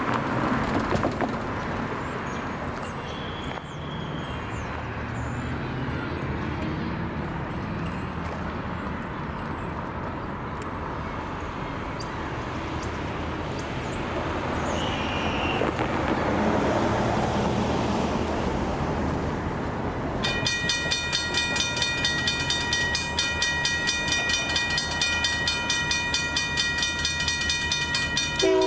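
Road traffic with birds chirping, then about twenty seconds in the grade crossing's Modern Industries mechanical bell starts ringing steadily as the signals activate for an approaching train. A locomotive horn begins right at the end.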